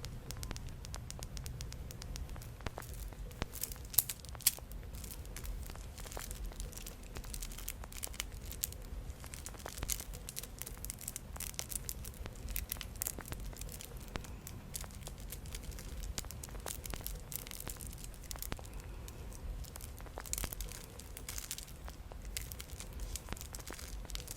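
Small friendship-bracelet beads clicking and rattling against each other as they are handled, in many quick, irregular clicks that bunch into denser runs, with two sharper clicks about four seconds in.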